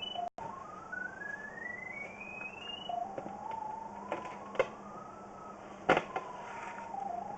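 Pipe locator receiver sounding a continuous tone whose pitch climbs in small steps, drops about three seconds in, then rises and falls slowly again as it is swept over the sewer camera's sonde; higher pitch means a stronger signal. A few sharp knocks come around the middle.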